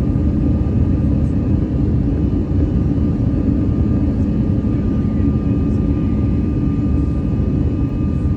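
Steady jet engine and airflow rumble inside the cabin of an Airbus A319-115 with CFM56 engines, even in level, with a faint steady whine on top.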